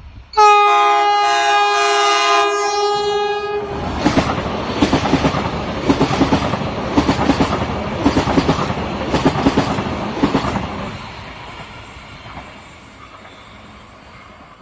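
An electric passenger train's horn sounds one long blast of about three seconds, then the train passes, its wheels clacking in a steady rhythm over the rail joints, and the noise fades away as it moves off.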